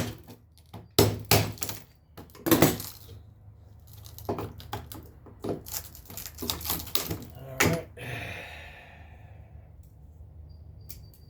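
Hammer strikes on wooden door trim being knocked and pried loose from around a door's glass panel: several sharp blows in the first three seconds, then lighter knocks and clicks, and a short scrape near the end.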